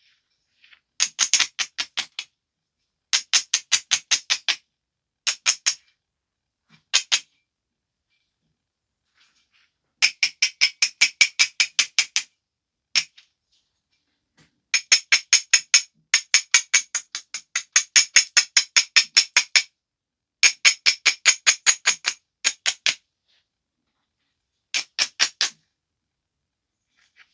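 Rapid back-and-forth strokes of an abrader rubbing along the edge of a flint biface, about five strokes a second, in runs of one to three seconds with short pauses between them, as the edge is ground to prepare platforms.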